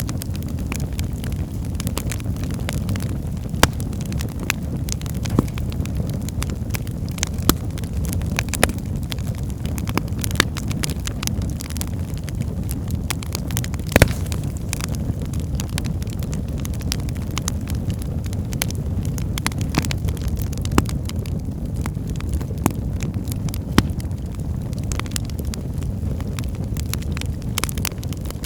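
Wood fire burning in a fireplace: a steady low rumble of the flames with frequent sharp crackles and pops, one louder pop about halfway through.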